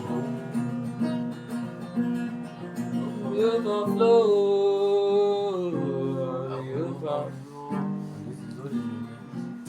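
Slow worship music with plucked guitar and sustained chords. A voice holds one long note a few seconds in, bending into and out of it.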